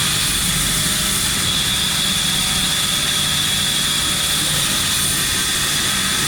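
Steady machinery running without a break: a constant low hum with a high, even whine over it.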